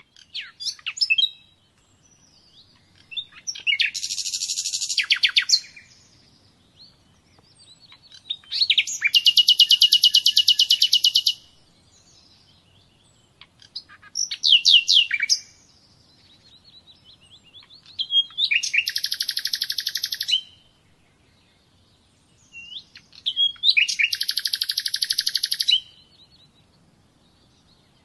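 A songbird singing in repeated phrases: a few sharp, sweeping notes followed by a very rapid, even trill lasting about two seconds, with a new phrase roughly every five seconds.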